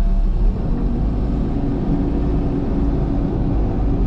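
Cat excavator's diesel engine running steadily; about half a second in, its note shifts and a steady higher hum comes in over the low rumble.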